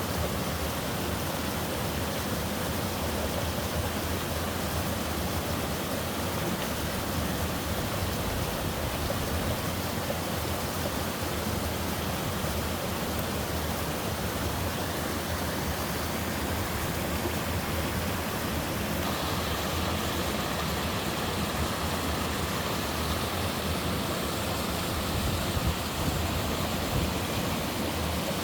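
Mountain stream water rushing steadily over rocks and small falls. About two-thirds of the way through, the sound shifts to a brighter, splashier rush.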